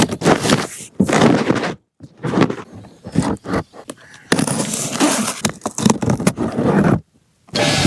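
Scraping and rustling handling noises with sharp clicks and knocks, typical of toys and packaging being handled for unboxing. It comes in short takes broken by two brief silences, about two seconds in and about seven seconds in.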